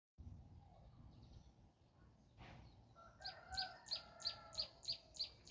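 Faint rooster crowing about three seconds in, overlapped by a small bird giving a rapid, even string of high chirps, about three a second.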